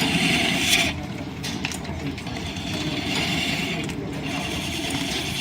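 Line-shaft driven wood lathe running with a steady rumble from the shafting and belt, while a turning tool cuts the spinning wood in a hissing scrape. The cutting stops just under a second in, resumes about halfway through, and breaks off briefly once more before carrying on.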